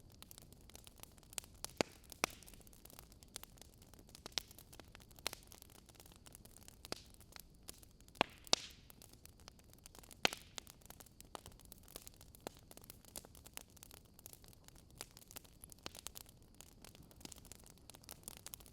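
Burning wood logs crackling: irregular sharp pops and snaps over a faint steady hiss, a few louder pops standing out around the middle.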